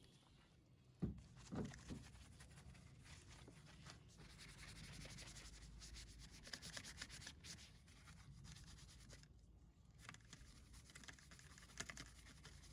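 Detailing brush scrubbing degreaser over a car's engine bay: quiet, rapid rubbing bristle strokes, with a couple of soft thumps about a second in.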